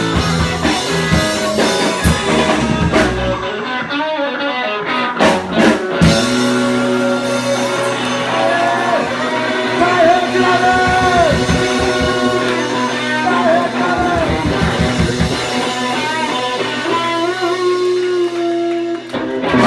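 Rock band playing live, with guitar and drum kit. About six seconds in, the drum hits drop away and the band holds a long ringing chord with wavering guitar or vocal lines over it.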